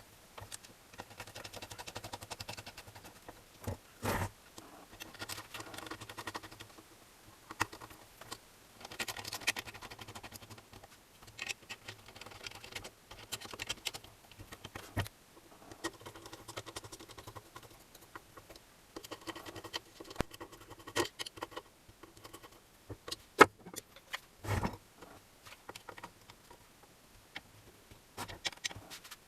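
Irregular clicks, clinks and rustles of hand work on small metal parts, with a few sharper knocks scattered through.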